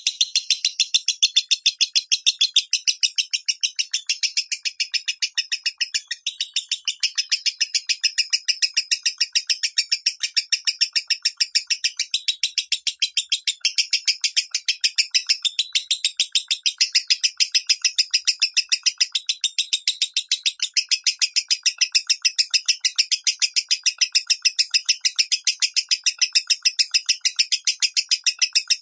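Lovebird singing a long, unbroken chattering run of rapid, sharp, high notes: the 'minor' style of lovebird song. It starts suddenly right at the beginning.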